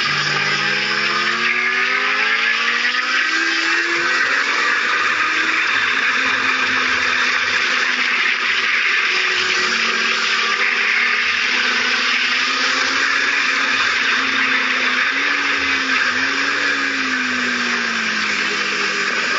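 Kawasaki Z750's inline-four engine pulling hard, rising in pitch through the gears in the first few seconds, then holding high revs and dropping in pitch near the end as the bike slows. Heavy wind rush on the camera runs under it throughout.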